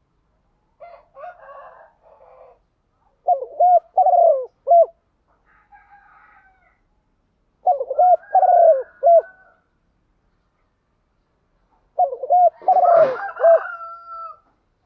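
Spotted doves cooing: three loud phrases of several descending coo notes, about four seconds apart, with fainter coos from another dove in between.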